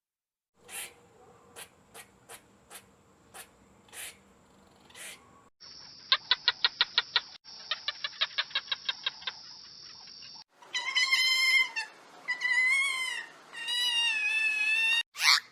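A run of separate animal sounds. First, scattered short clicks. Then a fast run of short chirps, about seven a second. Then three high-pitched calls, each about a second long and wavering in pitch.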